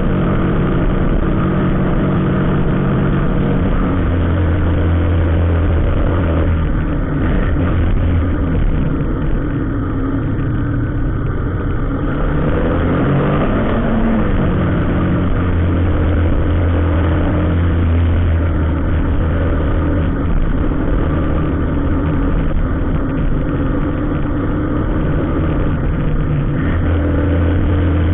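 Motor vehicle engine running steadily with a low hum, its pitch rising and falling briefly about halfway through, in slow-moving road traffic.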